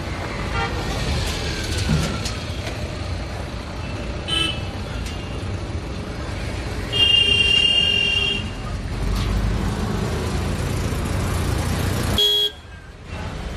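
Road traffic with engines running and vehicle horns honking: a short honk about four seconds in, a long loud honk of over a second about halfway through, and another short honk near the end.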